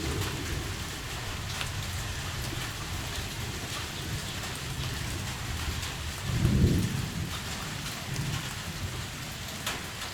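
Heavy rain falling steadily, with scattered drop ticks. About six seconds in there is a brief low rumble.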